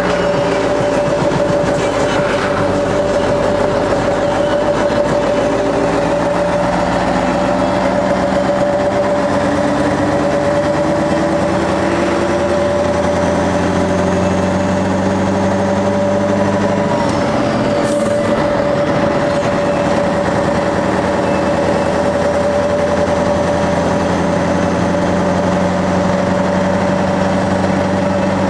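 Scania 142H truck's 14-litre V8 diesel running under load as the truck accelerates, its note rising slowly through the middle and then holding steady at cruising revs.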